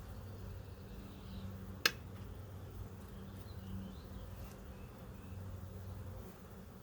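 Honeybees buzzing steadily, a continuous low hum from many bees. A single sharp click sounds about two seconds in.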